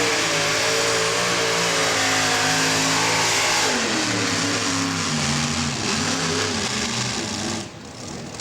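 Modified pulling tractor's engines running hard at high revs under load during a pull, steady for about four seconds, then wavering and dropping in pitch. The sound falls away sharply near the end.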